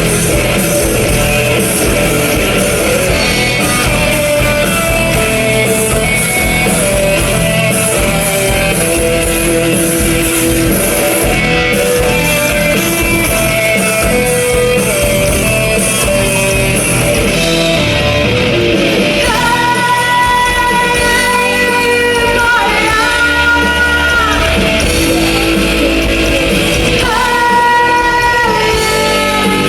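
Live rock band playing: electric guitar, bass and drums with a lead vocal. About two-thirds of the way through, the full band drops back and long held notes come to the fore.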